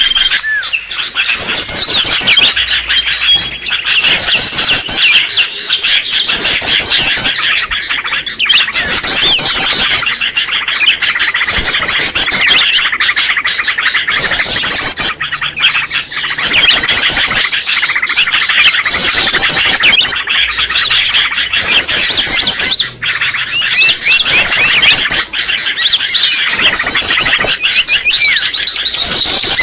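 Green leafbirds (cucak ijo) calling agitatedly, a dense, loud chatter of fast overlapping chirps and warbled phrases with no pause.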